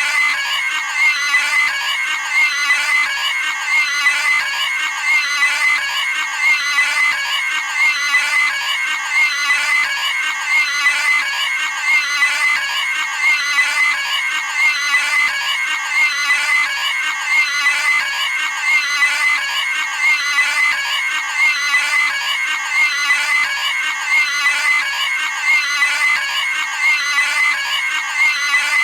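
Cartoon pig squealing and screaming, the same high-pitched scream repeated over and over in an unbroken loop.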